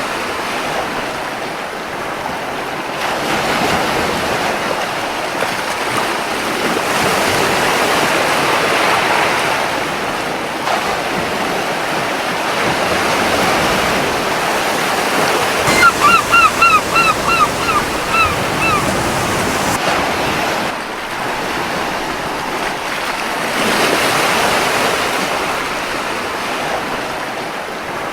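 Gentle surf washing on a beach, swelling and easing every several seconds. About halfway through, a gull calls a quick run of about eight short notes lasting some three seconds.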